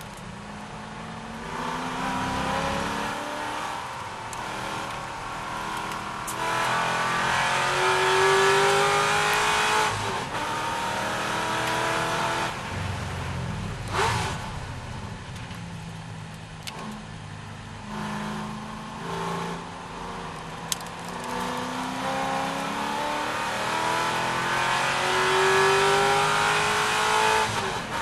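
C6 Corvette V8 racing: the engine note climbs repeatedly under hard acceleration and drops sharply several times as the driver shifts gear or lifts off.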